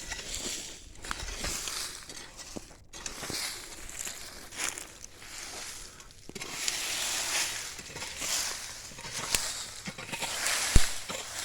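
A hoe scraping and dragging dry leaves and soil in repeated strokes while clearing a firebreak, with small clicks and one sharp knock near the end.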